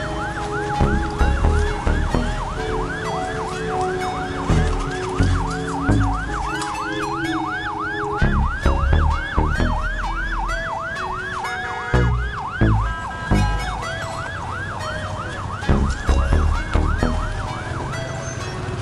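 Emergency vehicle siren in a fast yelp, its pitch sweeping up and down about three times a second, over low irregular thuds.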